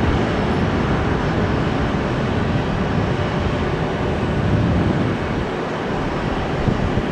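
Jet airliner engines running with a steady, deep rush of noise.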